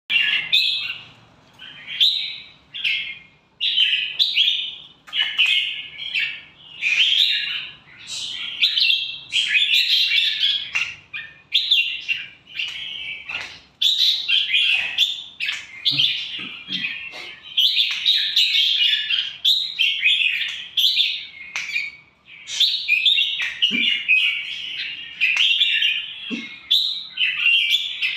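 Red-whiskered bulbul singing, phrase after phrase of bright chirping song with only short breaks between them.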